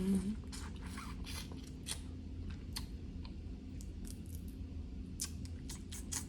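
Snow crab leg shells being cracked and picked apart: an irregular run of sharp clicks and crackles.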